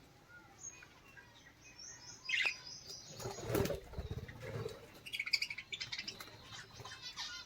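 Small caged birds fluttering their wings in several short bursts, with scattered high chirps and a quick chattering trill about two-thirds of the way in.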